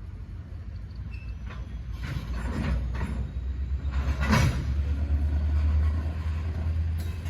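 Train rumbling past, a low rumble growing louder about two seconds in, with a few sharp clacks scattered through it.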